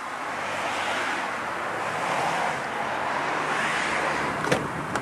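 Outdoor rushing noise that swells and eases, with two sharp clicks near the end.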